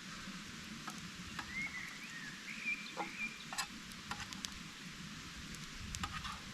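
Food sizzling over campfire embers: a steady faint hiss with scattered sharp pops, and a thin wavering whistle about two seconds in.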